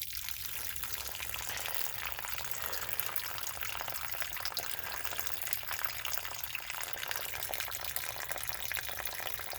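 Water pouring and splashing steadily out of a punctured HVAC duct line that had sagged full of water, draining out as a continuous crackling stream.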